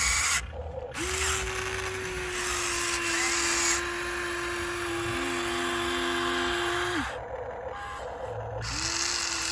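Small electric gear motors of a radio-controlled toy construction machine whining steadily. One whine starts about a second in, a lower second whine joins partway through, both stop together at about seven seconds, and a whine starts again near the end.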